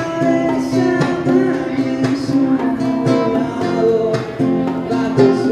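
Music: a steadily strummed acoustic guitar playing sustained chords with a regular beat.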